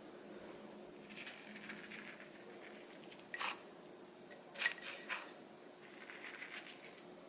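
Baking handling sounds: soft rustling with several light, sharp clicks and taps in the middle, over a faint steady hum.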